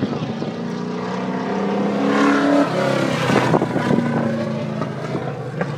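Stock race cars running laps on a circle track, their engines loud and continuous. One car passes close about two to three seconds in, getting louder, then dropping in pitch as it goes by.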